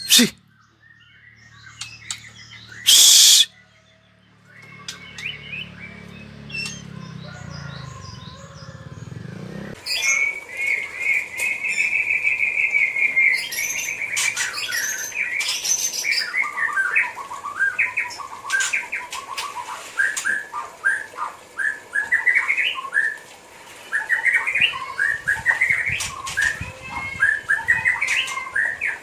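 White-rumped shama singing: a dense run of varied whistles, trills and chirps that sets in about a third of the way through. Before that the bird is mostly quiet, with a sharp click at the very start and a loud short burst of noise about three seconds in.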